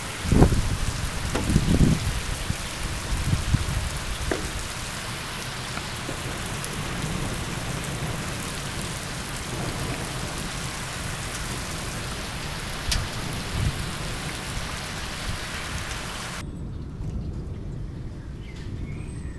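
Heavy rain pouring down onto a waterlogged road, a dense steady hiss, with deep rumbles of thunder in the first few seconds. About three quarters of the way through, the sound cuts abruptly to a much quieter, duller storm background.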